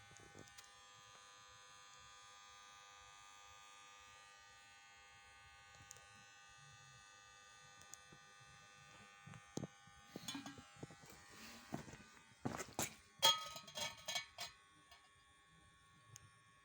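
A faint steady electrical buzz made of several fixed tones. From about ten seconds in it gives way to a series of metal knocks and clanks, the loudest ringing briefly, typical of steel wheel parts being handled.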